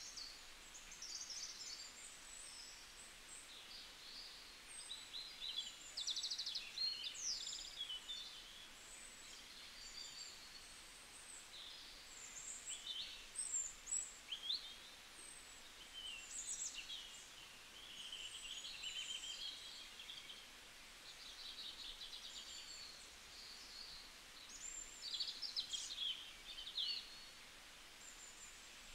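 Birds chirping and trilling in short, high calls that come and go every second or so, over a faint steady background hiss.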